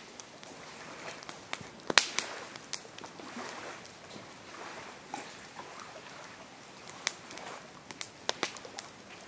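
Campfire crackling: burning wood giving irregular sharp pops and snaps over a soft steady hiss, the loudest pop about two seconds in and a quick run of pops near the end.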